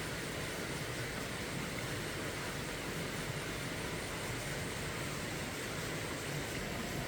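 A steady, even rushing noise with no distinct sounds standing out.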